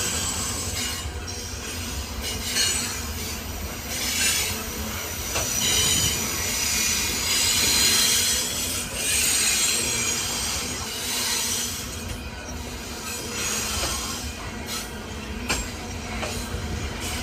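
Coal train cars rolling past with high-pitched steel wheel squeal that swells and fades several times over a steady low rumble, with scattered sharp clicks from the wheels.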